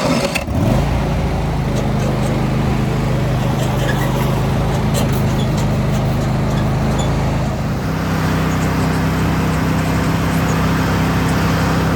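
A small farm vehicle's engine starting up and then running steadily. Its note steps to a slightly different pitch about eight seconds in.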